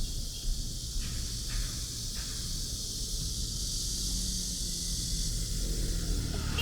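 Steady outdoor ambience: a constant high hiss over a low rumble, with a few faint brief sounds in between.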